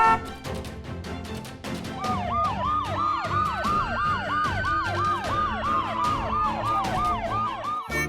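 Cartoon police-car siren, starting about two seconds in as a fast yelp of roughly three wails a second with a slower rising-and-falling wail under it, over upbeat background music.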